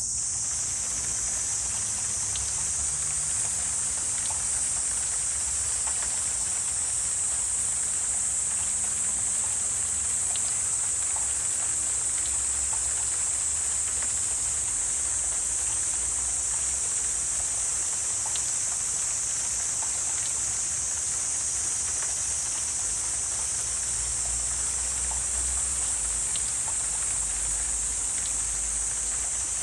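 Wetland ambience dominated by a steady, high-pitched insect chorus, with scattered faint ticks and a low rumble underneath.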